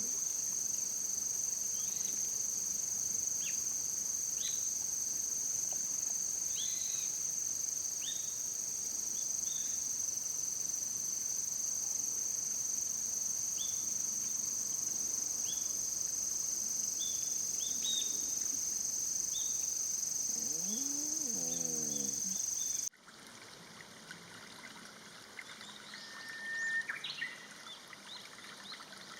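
Steady high-pitched chorus of insects such as crickets, with short bird chirps repeating over it. Near the end a lower call sounds, then the chorus cuts off abruptly and a quieter outdoor background follows.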